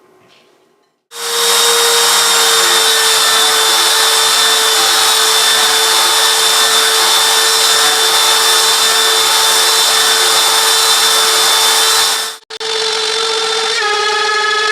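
CNC router spindle milling 6082 aluminium: a steady high whine over the cutting noise. It starts abruptly about a second in, drops out suddenly for a moment near the end, and resumes at a slightly different pitch.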